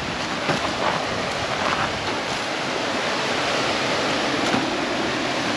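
Steady rushing of a waterfall on a river, growing slowly louder, with a few light knocks mixed in.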